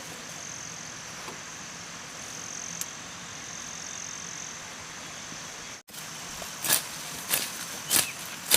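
Outdoor ambience with a steady, thin high insect drone. After a sudden cut near the end, a series of sharp knocks about every half second to two-thirds of a second.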